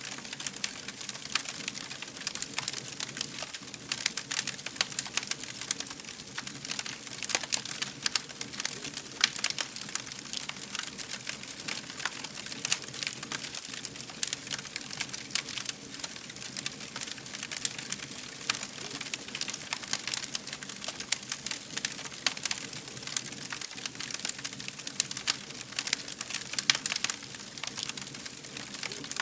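Wood fire crackling steadily, with many small irregular pops and snaps over a low steady hiss of burning.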